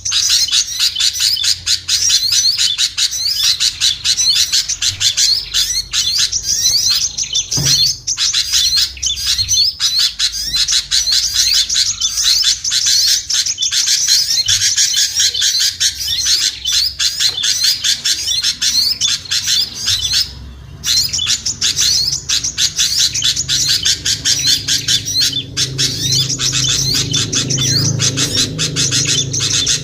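A dense, unbroken chorus of small songbirds chirping and twittering in rapid, closely packed calls, with a brief pause about twenty seconds in. It is a bird-lure call track (suara pikat) used to draw small birds down.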